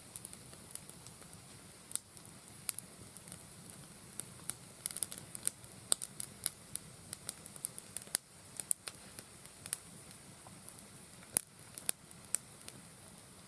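Wood campfire crackling: irregular sharp pops and snaps over a faint steady low rumble, coming thickest around the middle.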